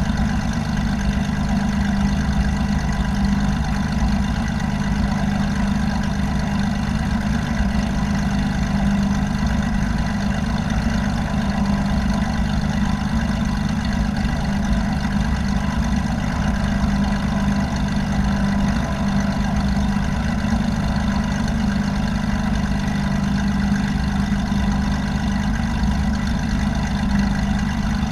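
Light aircraft's piston engine and propeller droning steadily, holding one even pitch with a strong low hum.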